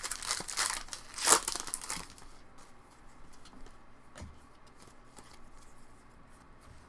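Crinkling of a trading-card pack's wrapper being handled and torn, loudest for about the first two seconds. After that comes quieter card handling with a couple of light clicks.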